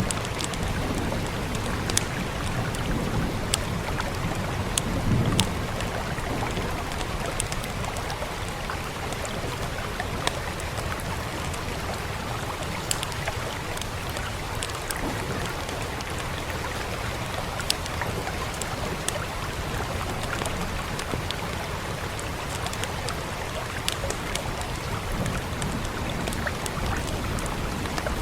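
Steady rain hiss with sharp, irregular pops and crackles of a wood fire, and a soft low rumble in the first few seconds.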